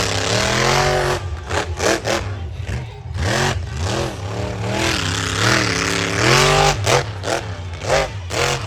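Monster truck engine revving hard during a freestyle run, its pitch swooping up and down again and again as the throttle is worked, with several sharp cracks in between.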